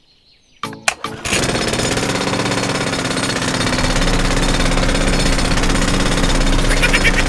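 A few sharp clicks, then a small motor-driven machine starts about a second in and runs steadily with a fast rattle and a steady hum.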